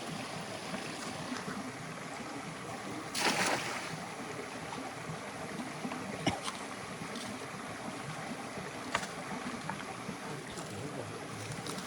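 Stream water running steadily, with a brief louder splash-like rush about three seconds in and a few small knocks later on.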